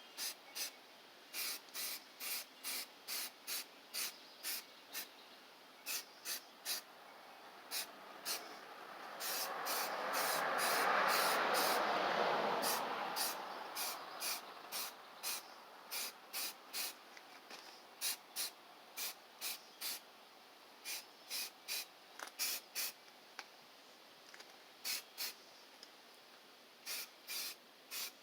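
Aerosol spray can of filler primer being sprayed in many short, quick bursts, about one or two hisses a second with irregular gaps. Around the middle a louder, lower rushing sound swells up and fades away over about five seconds.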